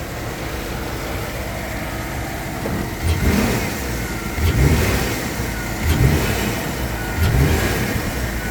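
2008 Chevy Tahoe's V8 idling in reverse, then revved in four short blips about every second and a half, with short knocks around several of the revs. This is a shift-and-rev test for worn motor mounts.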